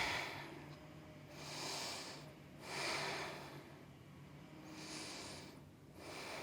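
A person breathing in and out audibly while holding a yoga pose, about four slow breaths of roughly a second each.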